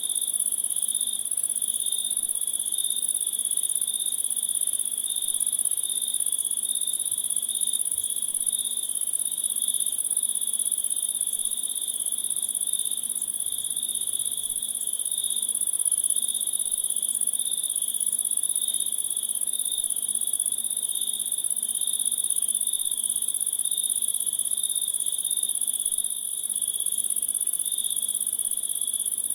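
Crickets trilling in a steady, unbroken chorus: a continuous shrill trill with a second, higher-pitched band above it.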